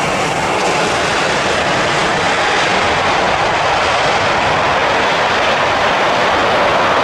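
Airbus A320-214 airliner's CFM56 jet engines, a loud, steady roar as it lands close by, swelling slightly near the end.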